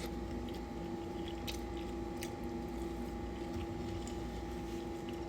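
Quiet chewing of a mouthful of food, with a few faint soft clicks, over a steady hum in the room.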